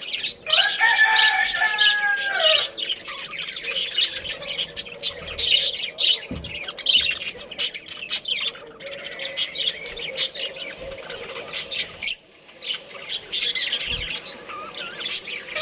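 Budgerigars chirping rapidly and continuously in quick high twitters. Near the start a rooster crows once, a call of about two seconds that falls in pitch at the end.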